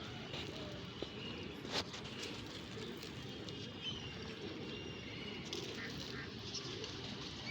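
Domestic pigeons cooing low and faint, with a few thin, high chirps and a small click over a steady background hum.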